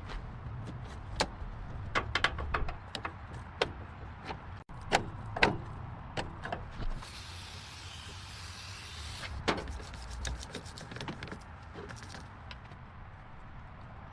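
Workshop work on a car: scattered sharp metal clicks and knocks, with a hiss lasting about two seconds in the middle, over a low rumble.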